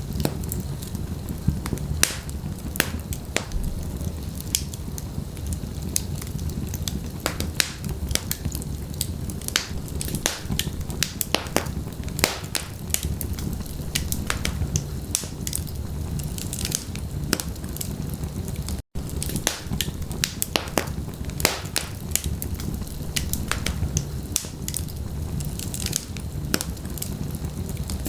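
Wood logs burning in a fireplace: a steady low rumble of flame under dense, irregular crackles and pops. The sound cuts out for a split second about two-thirds of the way through.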